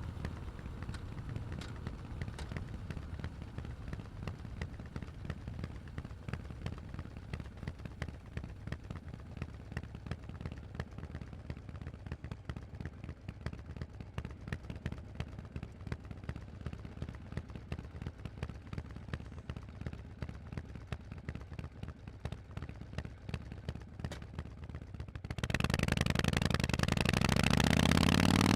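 Harley-Davidson Forty-Eight's V-twin through Vance & Hines exhausts, running at low revs with a rapid, uneven popping beat. Near the end it opens up sharply and accelerates, its note climbing in pitch and much louder.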